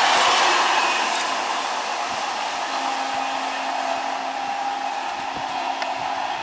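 Steady rushing of a suburban electric multiple unit train running past at speed, wheels and air noise together. It eases off over the first two seconds into a quieter steady hiss, with a faint low hum underneath from about the middle.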